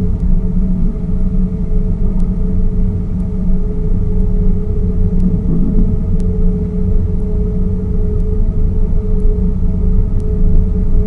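Tour boat's motor running at a steady speed, a constant hum over a heavy low rumble, heard from on board.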